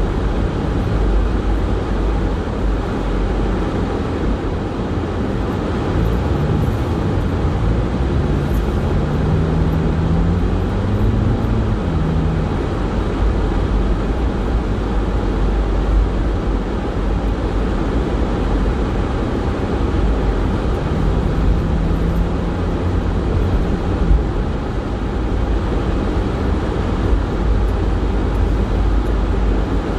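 Car driving on snow-covered roads: a steady low rumble of engine and road noise. A faint tone rises and falls about ten seconds in and again past twenty seconds.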